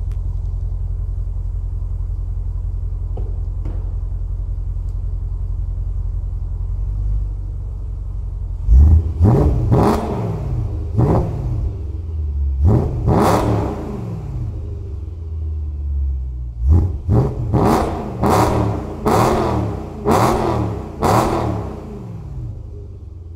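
BMW S65B40 4.0-litre V8 breathing through a GTS exhaust, idling steadily, then blipped hard about a dozen times in two bursts, each rev rising sharply in pitch and dropping straight back to idle.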